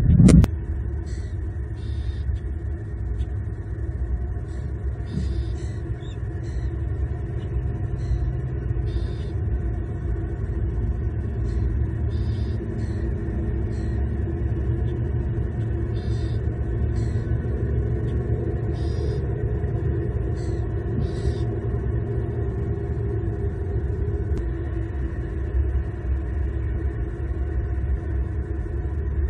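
Steady low rumble of distant road traffic picked up by an outdoor camera microphone, with faint, short high chirps now and then through the first two-thirds.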